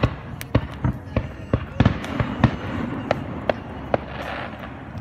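Fireworks going off: a quick, irregular run of sharp bangs and cracks, several close together about two seconds in, then a crackling fizz near the end.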